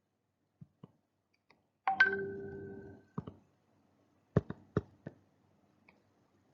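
A short electronic tone about two seconds in, holding steady for about a second before cutting off, among a few scattered sharp clicks.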